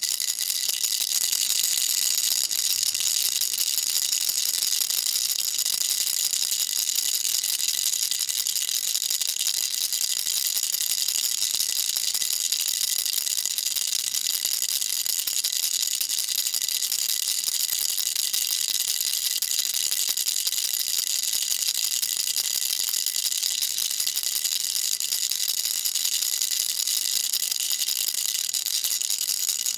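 Baby rattle shaken without a break: a dense, steady, bright rattling of the loose pieces inside, with no pauses.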